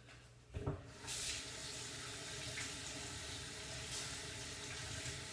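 A sink tap turned on and water running steadily into the sink, starting about a second in, as hands are rinsed of lotion. A short knock comes just before the water starts.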